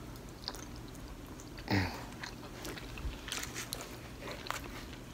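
Close-up mouth sounds of people eating stuffed bell peppers: chewing, biting and lip smacks, with small clicks of forks and a knife against the plates. One louder brief sound comes about two seconds in, and the clicks and smacks come thicker in the second half.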